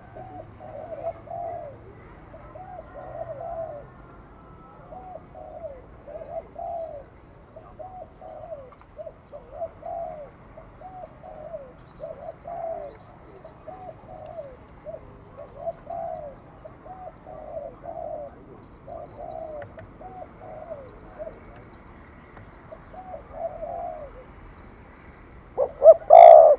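Spotted dove cooing again and again, short coos of the 'gù' call in close clusters about once a second. A louder burst comes near the end.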